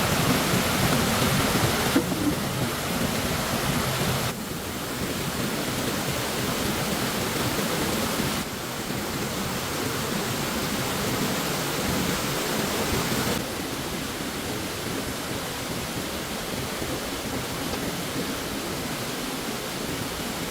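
Rushing stream water: a steady hiss of flowing water that jumps abruptly in level and tone four times.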